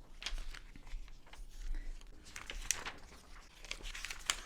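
Pages of a glossy magazine being turned and handled: paper rustling, with a few sharper page flaps.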